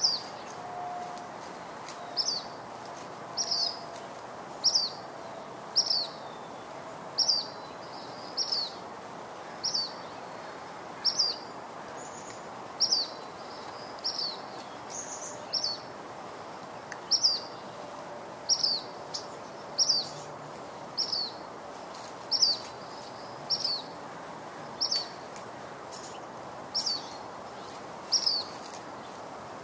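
A bird repeating a short, high chirp roughly once a second, over a steady background hiss.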